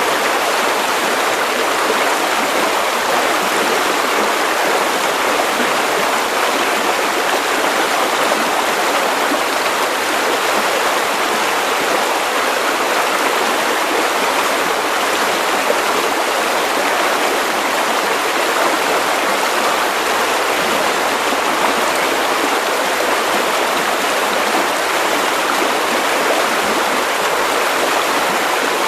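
White noise for sleep: a steady, unchanging hiss, full in the middle and upper range with almost no bass.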